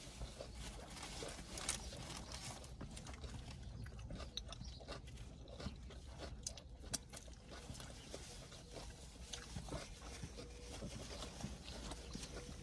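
Close-up chewing and biting of a Subway sub sandwich, heard as faint, irregular clicks and soft crunches.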